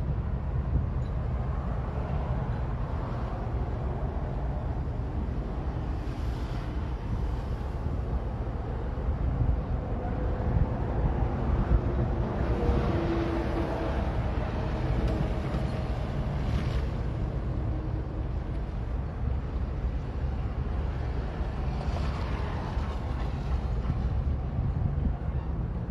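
Steady low rumble of heavy-equipment diesel engines running, with wind buffeting the microphone. A few faint steady tones come in around the middle.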